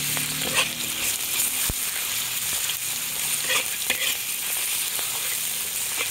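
Minced pork sizzling as it fries in hot oil with chopped garlic in a wok, stirred and scraped by a metal wok spatula, with a few scrapes and one sharp click.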